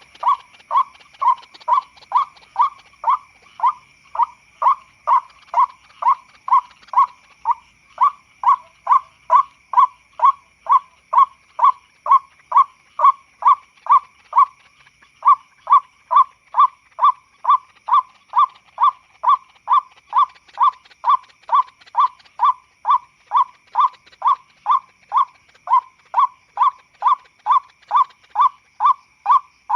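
White-breasted waterhen (ruak-ruak) lure call, a harsh note repeated evenly about twice a second with a brief break midway. A steady high tone runs behind it.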